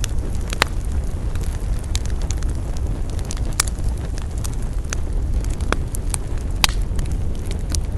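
Wood campfire crackling, with sharp pops scattered irregularly, the loudest about half a second in and several more later, over a steady low rumble.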